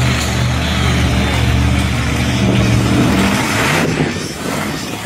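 Monster truck engine running loud, its pitch rising and falling as it is revved, then easing off a little near the end.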